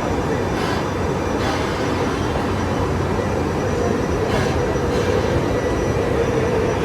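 Train running by with a steady, even noise and a few faint clicks.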